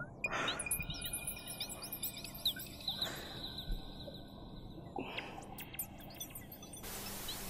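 Small birds chirping and twittering, many quick high chirps overlapping, with a short rush of hiss near the end.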